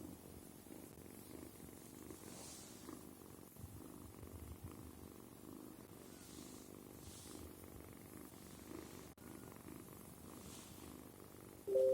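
Kitten purring steadily, a low, continuous pulsing rumble. Right at the end a loud electronic chime of two steady tones cuts in.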